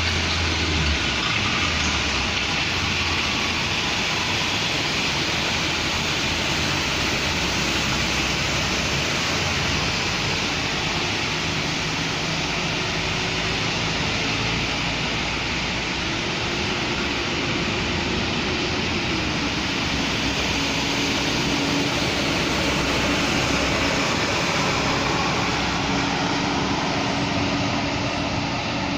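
Steady rain falling on a city street, an even hiss, with the faint engine hum of passing vehicles underneath.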